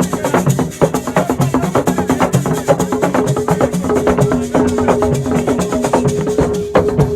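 Senegalese assiko percussion music: fast, dense drum strokes with rattles and wood-block-like clicks. A steady held note comes in about three seconds in and sustains over the drumming.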